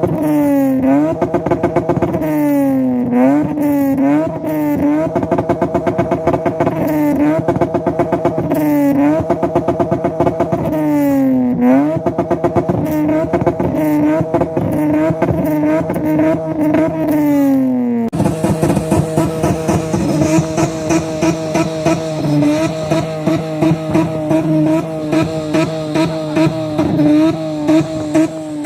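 Car engine being revved over and over, its pitch climbing and falling with each blip of the throttle. About two thirds of the way through the sound changes abruptly to an engine held at a steady pitch with a rapid pulsing beat.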